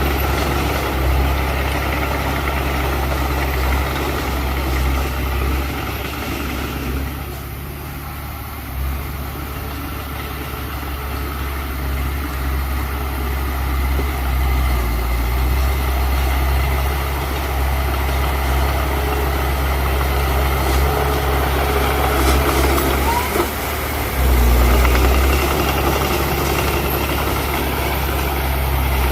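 Diesel engine of a Mitsubishi BD2F crawler bulldozer running steadily with a deep hum, its load shifting. It eases off for a few seconds about a quarter of the way in and gets louder again near the end.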